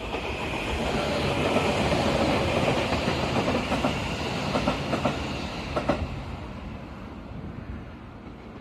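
Train running past on the rails, with clicks of the wheels over rail joints. It starts abruptly, is loudest in the first few seconds, then fades as the train moves off.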